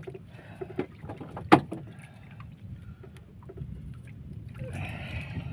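Water sloshing and splashing, with scattered sharp knocks; the loudest knock comes about a second and a half in.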